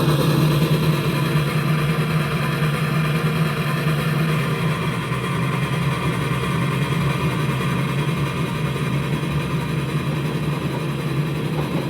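Reading and Northern 425's seven-car passenger train rolling past, a steady rumble that fades slightly toward the end.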